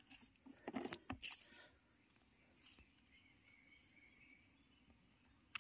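Mostly quiet, with a short flurry of rustles and crackles about a second in and one sharp click near the end. A faint, thin high note lasts a couple of seconds in the middle.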